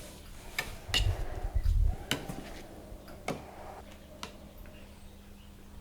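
Scattered light clicks and taps of paint-mixing containers and tools being handled, with a low rumbling knock between one and two seconds in.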